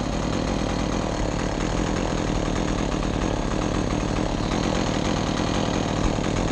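Chainsaw idling steadily, with no revving or cutting.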